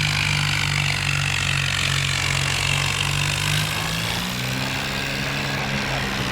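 Heavy diesel engine running steadily, its note shifting about three and a half seconds in.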